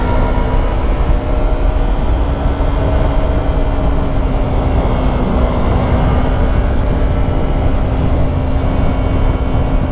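Yamaha YZF-R3's 321 cc parallel-twin engine running at steady cruising revs, its pitch holding nearly constant, under heavy wind rush on the microphone.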